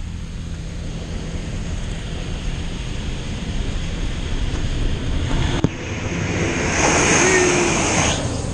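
Automatic car wash heard from inside the car: a steady low mechanical drone, then a short knock, then a loud hiss of water spray hitting the car for about a second near the end.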